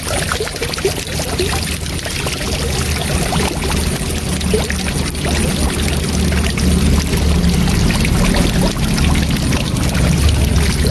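Waterfall rushing steadily, a continuous wash of falling water with a deep low rumble under it.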